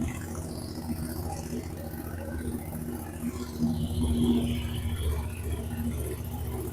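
CFMOTO 450MT's parallel-twin engine running at idle through a newly fitted aftermarket exhaust, briefly growing louder about four seconds in.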